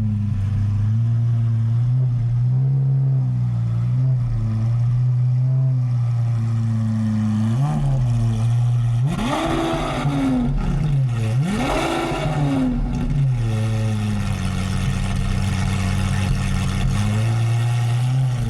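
Lamborghini Aventador SVJ's naturally aspirated V12, breathing through a Gintani aftermarket exhaust, idling steadily. About seven seconds in it gives a short blip, then two quick revs that rise and fall, before settling back to idle.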